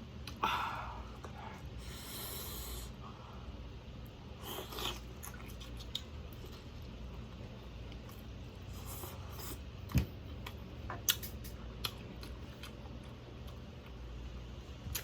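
A person eating seafood close to the microphone: quiet chewing and mouth sounds with a few sharp clicks, the clearest about ten and eleven seconds in, over a low steady hum.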